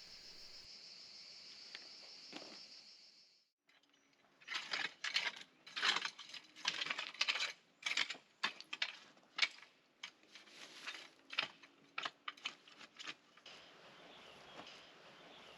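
Crickets chirping steadily, then after a short break a quick, irregular run of sharp clicks and knocks, several a second, from pipe clamps being fitted into a wall.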